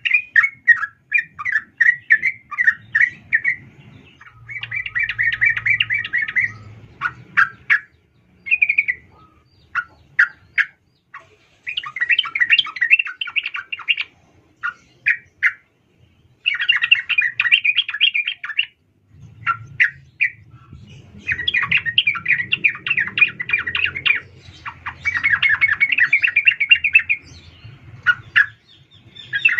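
Female yellow-vented bulbul calling to a male: repeated fast chattering phrases, each a second or two long, broken up by short sharp single chirps and brief pauses.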